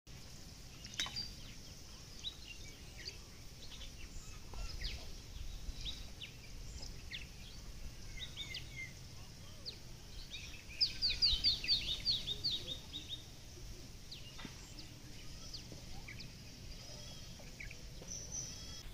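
Birds chirping and calling, short scattered notes, with a quick run of about nine descending notes around eleven seconds in, over a low steady rumble.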